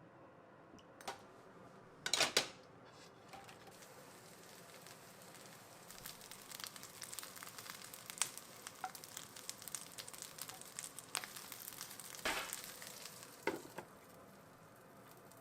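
Food crackling and sizzling in a frying pan, with a few sharp clatters of a utensil or pan, one loud one early and two more near the end.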